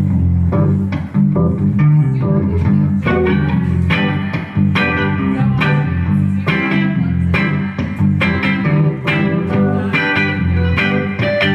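Live band playing an instrumental passage: electric guitar over a steady bass line.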